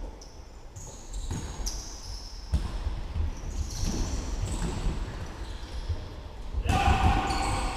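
Sounds of football play: a ball being kicked and bouncing in repeated thuds, with short calls from players, and a louder burst near the end.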